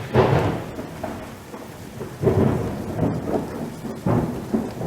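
Thunder rumbling in three swells about two seconds apart over a steady hiss of rain.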